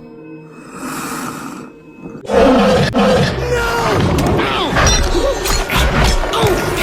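Soft film score, then about two seconds in a sudden loud chorus of squawking animated seagulls with swooping cries over the music.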